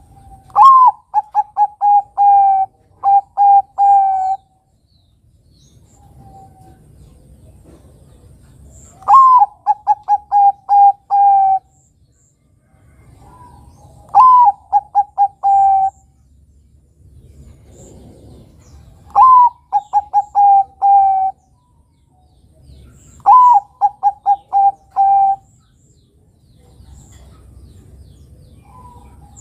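Zebra dove (Bangkok-type perkutut) cooing: five phrases, each a short rising note followed by a quick run of clipped, repeated coos, about two seconds long and coming every four to five seconds.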